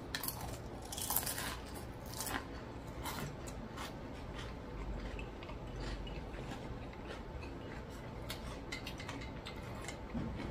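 Close-up chewing of a mouthful of crispy fried food, the crunches densest in the first couple of seconds, then thinning to scattered soft crunches and mouth sounds.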